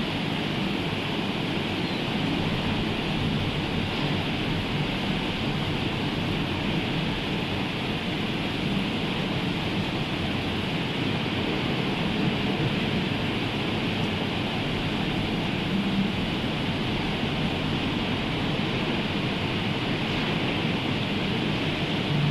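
Rain and sea surf together as a steady, even rush of noise, with no single wave or drop standing out.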